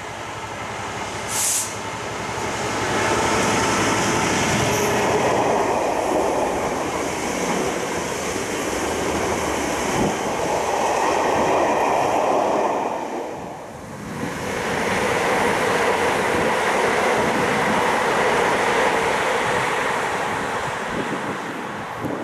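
Passenger train noise on the East Coast Main Line, passing at speed. The rush swells over the first few seconds, dips briefly about two-thirds of the way through, rises again, then fades near the end.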